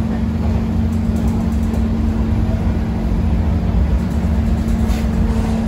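Steady low rumble with a constant hum inside a passenger train coach of the Lalbagh Express, running unchanged without any sudden event.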